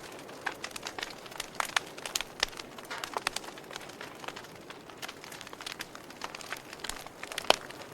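Wood fire crackling: irregular sharp pops and snaps over a steady hiss, with one louder pop about seven and a half seconds in.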